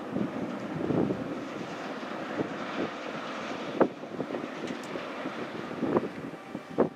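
Wind buffeting the microphone over the steady rumble of a passenger ferry under way, with two short sharp knocks about four and six seconds in.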